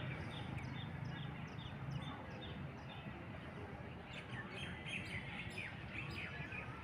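Birds chirping in trees: one bird repeats a short high call about two or three times a second, and about four seconds in several birds call at once. A steady low background rumble runs underneath.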